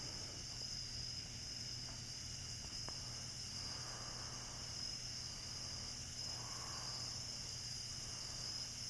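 Steady high-pitched chorus of night insects such as crickets, unbroken throughout, over a low steady hum, with a couple of faint ticks.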